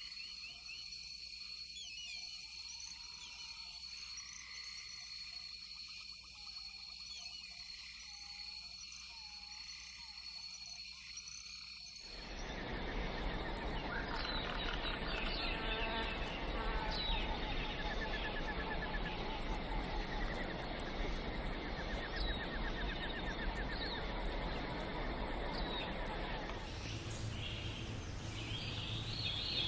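Forest ambience: a steady high insect drone with repeated short calls, which changes abruptly about twelve seconds in to a louder, denser chorus of bird chirps and trills over insect noise.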